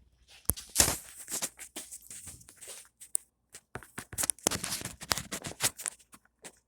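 Irregular clicks, knocks and scrapes of metal hand tools and a socket being handled, in two busy clusters, about a second in and again from about four to six seconds in.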